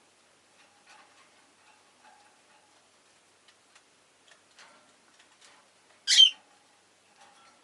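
Peach-faced lovebird giving one loud, shrill squawk about six seconds in, among faint scattered clicks and soft short chirps.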